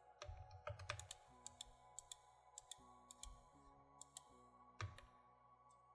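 Near silence: faint, scattered computer mouse and keyboard clicks over very quiet background music.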